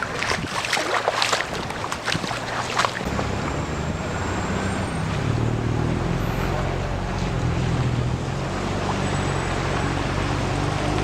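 Water splashing and sloshing in quick sharp strokes for about three seconds, then a low steady rumble takes over.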